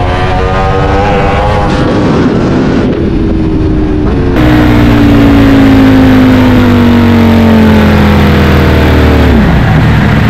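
Sport motorcycle engine heard onboard over wind rush. The revs waver up and down at first, then the engine note slides steadily down for about five seconds and drops sharply near the end.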